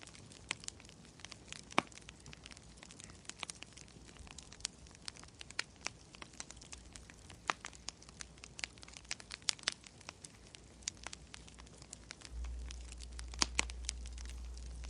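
Wood fire crackling, with irregular sharp pops and snaps. A low steady hum comes in near the end.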